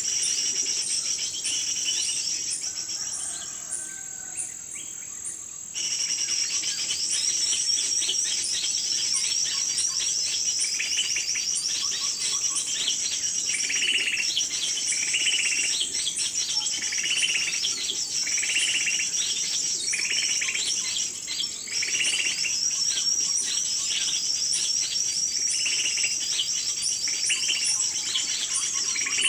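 Small birds chirping, with one bird repeating a short call about once a second, over a steady high-pitched insect buzz. The buzz drops away about two seconds in and comes back abruptly near six seconds in.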